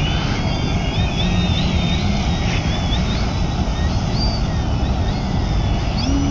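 Electric motor and propeller of a Precision Aerobatics Addiction RC aerobatic plane whining in flight, its pitch wavering up and down as it manoeuvres low over the water, over a steady low rumble.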